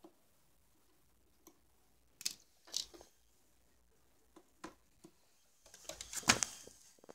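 Scattered short clicks and brief rustling handling noises, with a louder cluster of scraping and clattering about six seconds in.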